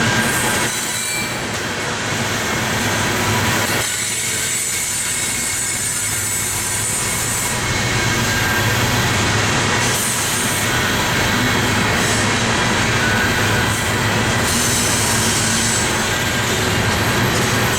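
Loaded coal train cars rolling past on the rails, a steady loud rolling noise of steel wheels on track, with faint high wheel squeal.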